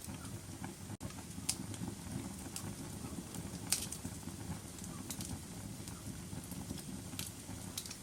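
Wood fire in a fireplace burning with a steady low rumble and sharp crackles and pops every second or so, the loudest a little under four seconds in. The sound drops out for a moment about a second in.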